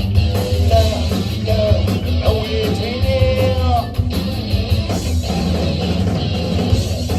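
Rock band playing a song live, electric guitar to the fore over bass and drums, with a melody line that bends in pitch through the middle.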